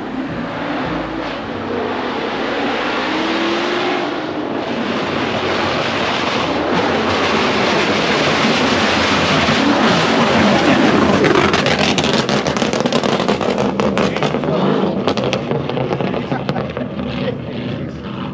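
A car's engine revving hard as it is slid at a car meet, with a dense rushing noise that builds to its loudest about ten seconds in. A run of sharp cracks and pops follows near the end.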